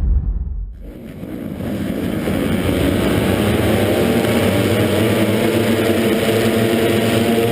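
Honda CRF250R motocross bike's four-stroke single-cylinder engine running hard. A brief low rumble dips about a second in, then the engine note builds louder over the next couple of seconds and holds.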